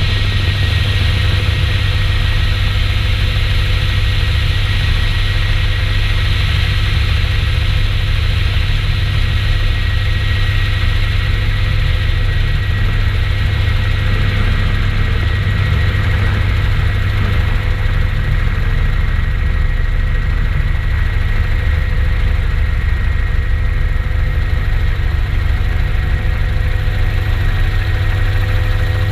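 Helicopter running steadily: a constant low engine and rotor drone with a thin, steady high whine on top.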